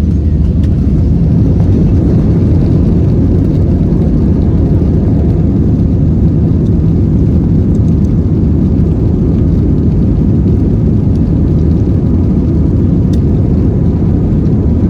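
Loud, steady low rumble of an Airbus A320-232's IAE V2500 jet engines and rushing airflow, heard from inside the passenger cabin with the engines at high power.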